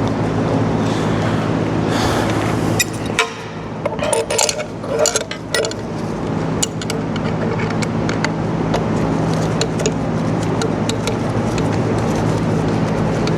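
Steady workshop machine hum with several low tones, overlaid by scattered sharp metal clinks and ticks from socket cap bolts and tools being handled during pump reassembly. The hum briefly drops about three seconds in while a quick run of clinks sounds, then returns.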